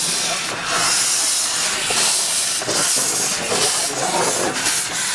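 Loud, steady hissing noise.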